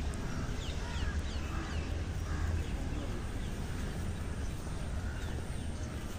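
Birds chirping: a run of short, quick falling chirps in the first couple of seconds and a faint one later, over a steady low rumble.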